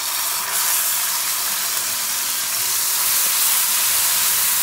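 Freshly added wet onion paste sizzling loudly and steadily in hot oil in a pan.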